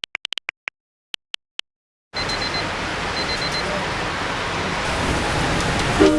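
A few short, faint high pips over near silence. Then, about two seconds in, a cut to a steady hiss of heavy rain. Plucked ukulele-like music comes in just before the end.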